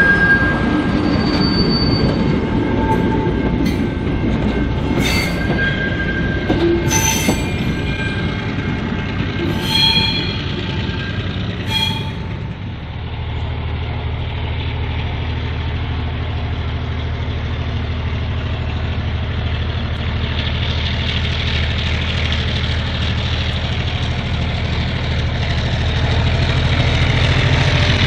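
Heritage train cars and goods wagons rolling by slowly, their wheels squealing in short high tones among knocks and clanks. After about twelve seconds these give way to a steady low diesel engine hum.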